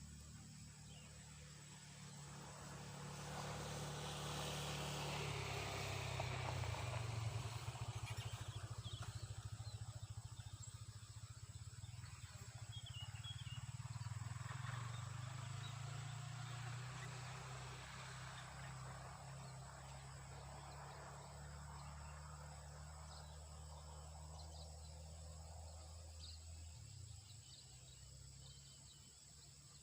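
A motor engine's low hum swelling and then slowly fading away, like a vehicle passing at a distance, over a faint outdoor background of insects and a few bird chirps.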